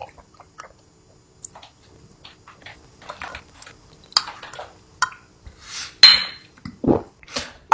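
Scattered light clicks and clinks of dishes and utensils, with a few sharper taps in the second half, one of them ringing briefly.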